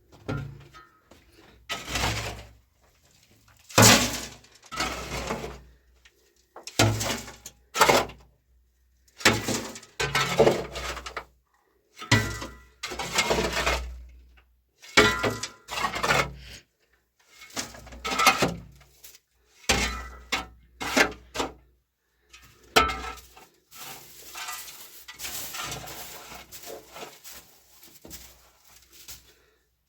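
A run of separate knocks, clatters and scrapes of cooking work, such as pots, utensils and food being handled, each lasting a second or so with short silences between. About two thirds of the way through they give way to a few seconds of steadier rustling noise.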